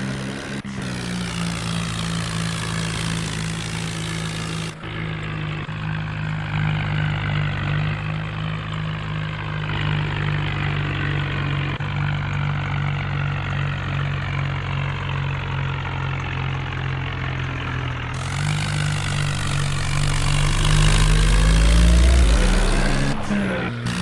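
A vehicle engine running steadily, with a deep surge about three-quarters of the way through.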